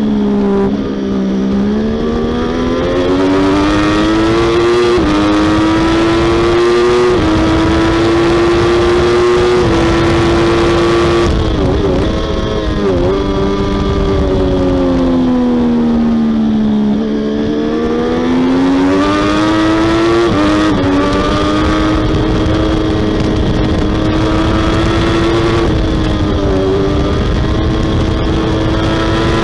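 Triumph Daytona 675R's three-cylinder engine at race pace, heard from on board: revving hard up through the gears with quick upshifts, a few blipped downshifts a little over ten seconds in, the pitch sagging through a corner, then pulling hard again with more upshifts near the end.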